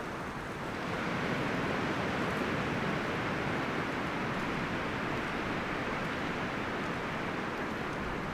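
Wind rustling through forest leaves and branches, a steady rush that swells into a stronger gust about a second in and holds.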